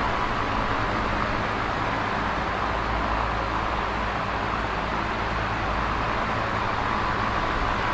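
Electric fan running steadily: a constant whooshing air noise over a low motor hum, with no change in speed.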